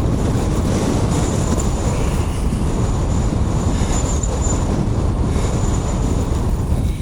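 Strong blizzard wind buffeting the microphone, a steady heavy rumble, with a thin high whistle running through it from about a second in until near the end.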